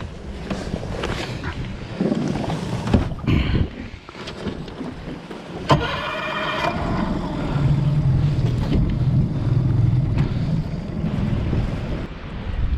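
Boat noise on the water with wind buffeting the microphone. About six seconds in there is a sharp knock followed by a brief ringing tone, and after that a steady low drone.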